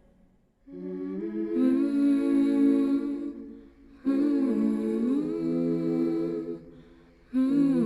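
A small a cappella choir of women's voices humming wordless chords in long held phrases. Each phrase glides slowly between notes and fades, three in all.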